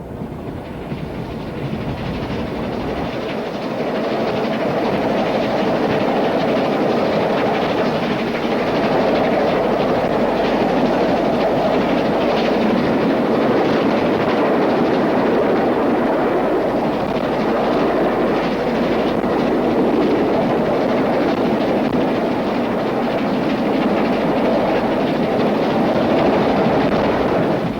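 Steam-hauled express train running at speed: a steady rushing rumble that grows louder over the first few seconds, then holds steady.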